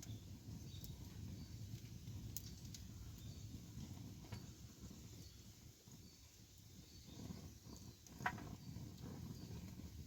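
Wood campfire burning: a low steady rumble with scattered sharp crackles and pops, the strongest pop about eight seconds in.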